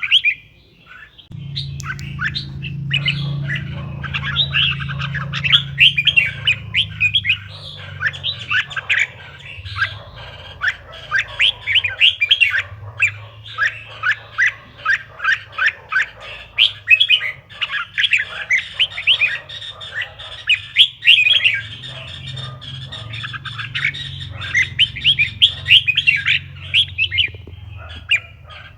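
Red-whiskered bulbuls singing, a dense run of quick chirping notes. A low steady hum sits underneath from about a second in.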